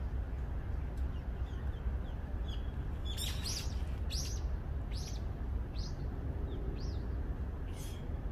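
A small bird calling in short, high chirps that drop in pitch, about one a second and louder from a few seconds in, over a steady low rumble.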